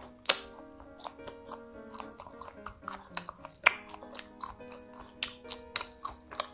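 A person chewing a bite of banana bread roll with the mouth closed: a quick, irregular run of small moist clicks and crunches, over soft background music with held notes.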